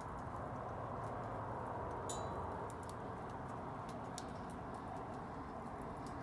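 Wood bonfire burning: a steady low rushing with irregular sharp crackles and pops, one louder pop about two seconds in.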